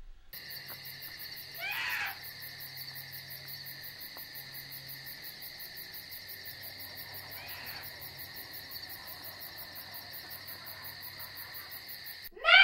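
Night insect chirring in a fast, steady pulse, with a falling call twice. A loud, sudden cry breaks in near the end.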